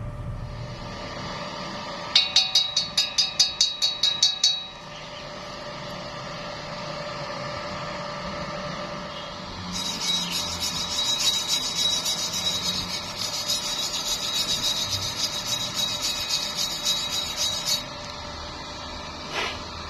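Electric arc welding: about two seconds in, a quick rhythmic run of about a dozen pulses. Then, from about halfway, the arc crackles steadily for roughly eight seconds and cuts off suddenly.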